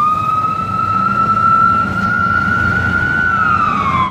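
Fire truck siren on a slow wail, holding a steady high pitch and then starting to fall near the end, over the low rumble of the truck's engine.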